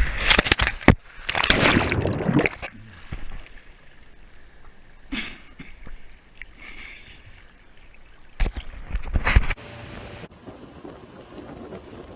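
Water splashing and sloshing in several loud bursts with a few sharp knocks: a long burst at the start, a short one around five seconds, and another between about eight and a half and nine and a half seconds.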